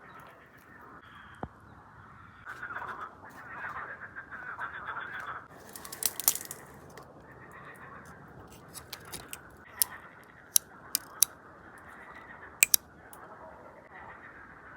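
Spring forest ambience with birds calling in the background, busiest a few seconds in, and about ten short, sharp clicks or snaps in the second half.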